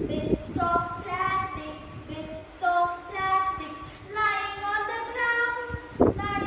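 A high-pitched voice singing a melody in held notes, with a brief thump near the end.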